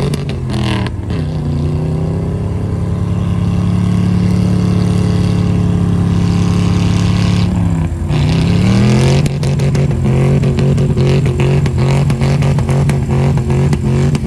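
Truck engine running through a loud exhaust. Its revs drop about a second in and hold steady for several seconds, dip about eight seconds in, then climb again and settle into a fast, even pulsing.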